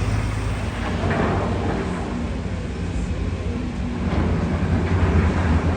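A heavy engine running with a steady low hum over general city street noise.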